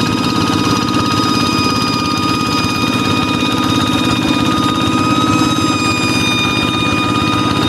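Kubota hand tractor's single-cylinder diesel engine running steadily, a rapid engine beat with a high, steady whistling tone over it: the 'fighter jet' sound these tractors are known for.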